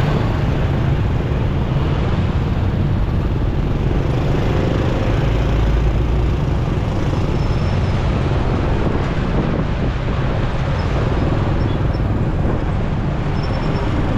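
Ride-along noise from a motorcycle in city traffic: a steady wind rumble on the microphone mixed with engine and road noise, with no clear change throughout.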